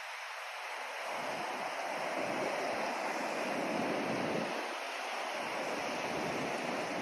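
White noise: a steady, even hiss whose low end thins out twice and whose level swells gently.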